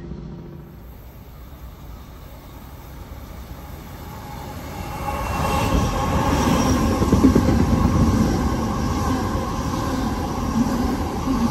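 Sydney Trains double-deck electric passenger train approaching and running past at close range. The sound builds about five seconds in and stays loud: wheel and rail rumble with a steady hum from the train's electrical equipment.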